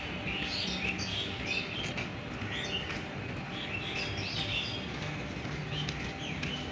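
Small birds chirping and twittering in many short, quick calls, over a steady background noise.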